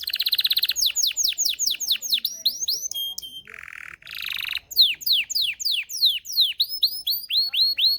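Belgian canary singing continuously: runs of fast repeated down-slurred notes, quick trills and buzzy rolls, switching phrases every second or so.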